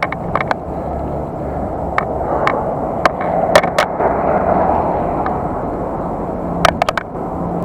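Bicycle riding noise picked up by an action camera: a steady rush of wind and tyre rumble, broken by sharp clicks and knocks as the bike jolts over bumps, with a quick cluster of them near the end.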